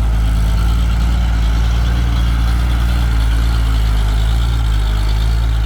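Heavy diesel engine idling steadily, with a constant low rumble.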